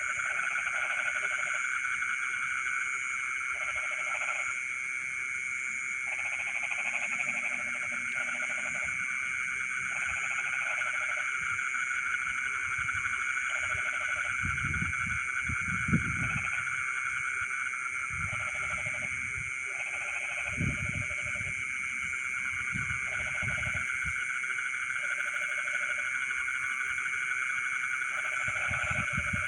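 Night chorus of frogs and insects in a rice field: a steady high insect drone under frog calls that repeat every second or two.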